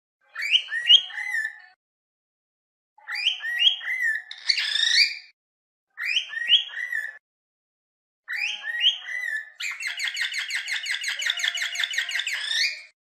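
Cockatiels calling in short bursts of chirps and rising and falling whistles, with gaps of silence between them. Near the end comes a rapid chattering run of about eight notes a second, lasting about three seconds.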